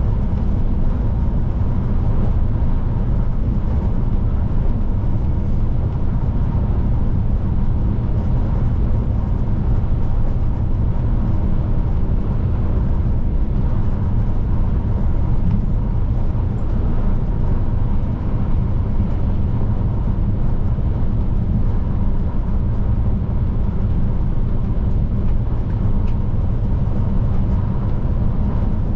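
Scania P310 truck's diesel engine and tyre noise, running steadily at cruising speed, a deep even rumble with a faint steady whine above it.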